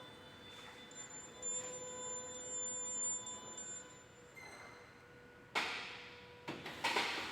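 Raymond Swing Reach truck running: a steady electric whine with a higher whine for about three seconds, then three sharp clanks in the last two seconds.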